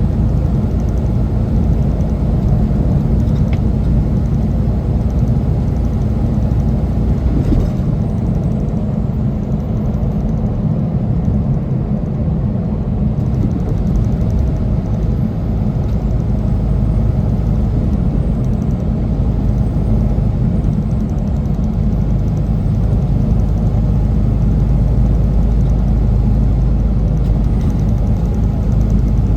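Semi truck's diesel engine and road noise, a steady low rumble as the loaded rig climbs.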